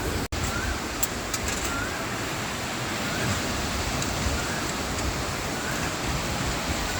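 Sea surf washing onto a sandy beach: a steady rushing noise with a low rumble.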